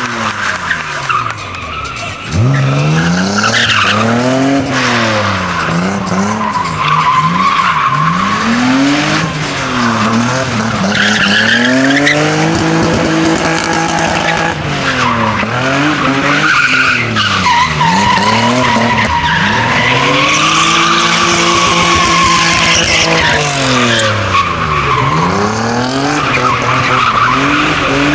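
Toyota Supra Mk3's straight-six engine revving up and down again and again under throttle while the tyres squeal and skid through drifts. It gets louder about two seconds in.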